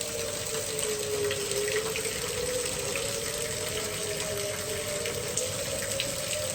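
Outdoor warning sirens wailing in the distance, two tones slowly rising and falling together, over the steady hiss of heavy rain.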